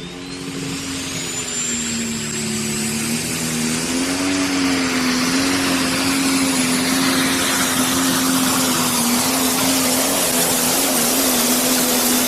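Pro stock pulling tractor's 680 cubic inch single-turbo engine running flat out under load during a pull, its pitch held steady as it gets steadily louder. A high turbo whistle climbs in pitch during the first second.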